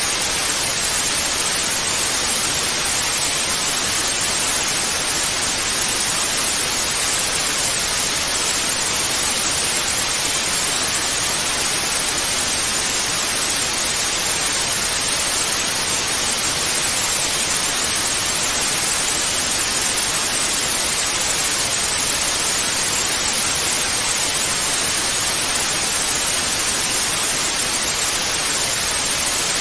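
Television static: a steady, unbroken hiss of white noise, brightest in the upper range.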